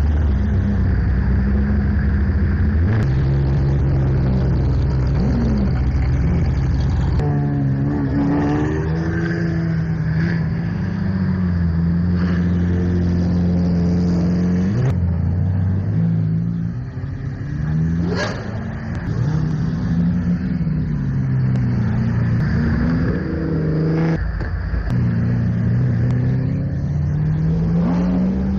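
Hypercar engines running and revving as the cars roll past, the engine note stepping and sweeping up and down in pitch, with one sharp rev about eighteen seconds in.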